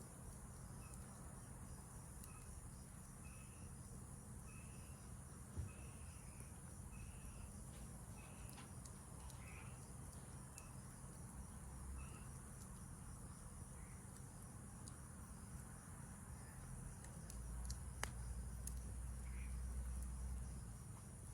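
Night insects calling in a forest: a steady high drone with short chirps repeating about once a second. Faint crackling pops from a wood campfire are scattered through it, and a low rumble swells near the end.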